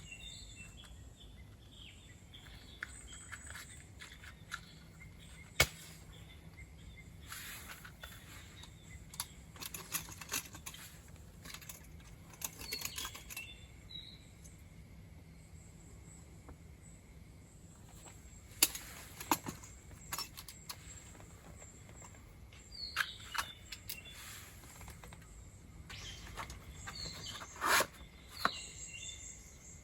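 Scattered sharp clicks and knocks of camp gear being handled, with short bird chirps in the background.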